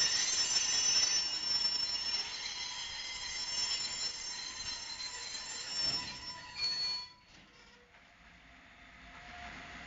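Freight train of hopper wagons rolling past, with a high-pitched metallic squeal of several tones over the rolling noise of the wheels. The sound stops abruptly about seven seconds in, leaving a quiet lull.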